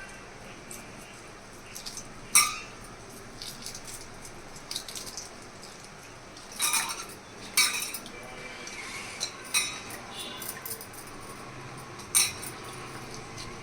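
Kitchen utensils and dishes clinking and clattering: five or so sharp knocks with a short ring, the loudest about two seconds in, and smaller clinks between them.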